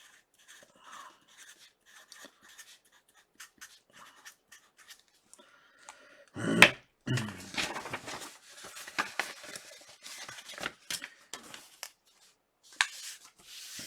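Trading cards and their packaging being handled: scattered light clicks, scraping and rustling, with a louder bump about six and a half seconds in and busier rustling after it.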